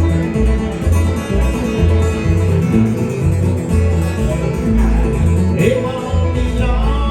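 Acoustic bluegrass band playing an instrumental break: acoustic guitar and banjo picking over bass notes that change on the beat.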